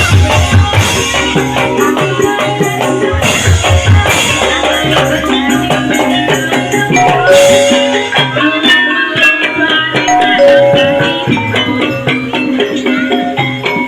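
Gamelan music for an ebeg horse-trance dance: quick, interlocking pitched percussion over drums, with a run of heavy low drum strokes right at the start and again about three seconds in.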